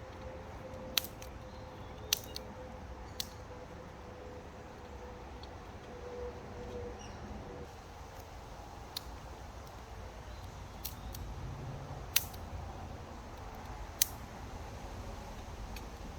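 Small fire of damp wood burning in a Firebox camp stove, with a handful of sharp crackling pops at irregular intervals over a low steady background.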